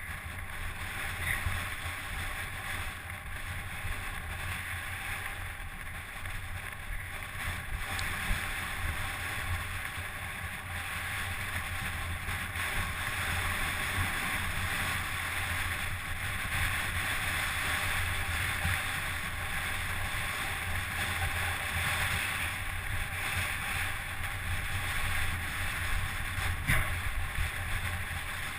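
Wind buffeting the microphone, with a steady low rumble and occasional light ticks and rattles, as from a camera riding along on a mountain bike's downhill run.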